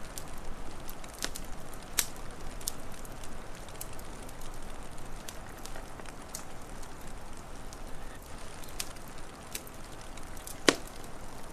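Wood fire crackling, with scattered sharp pops over a steady hiss; one loud pop near the end.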